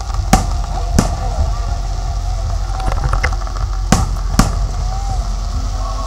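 Fireworks shells bursting in four sharp bangs, in two pairs about three seconds apart, over a steady low rumble and the murmur of crowd voices.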